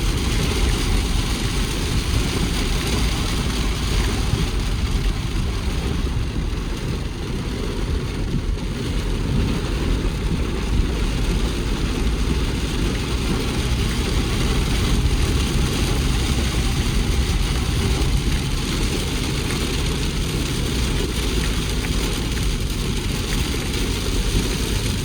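A vehicle engine running steadily while under way, mixed with a steady low rumbling noise.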